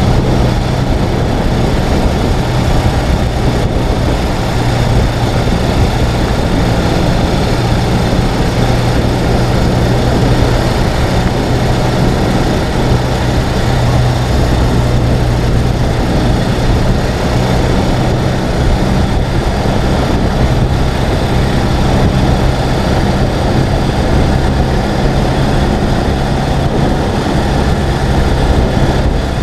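Ural sidecar motorcycle's air-cooled boxer twin engine running steadily under way, with a dense rush of road noise over it.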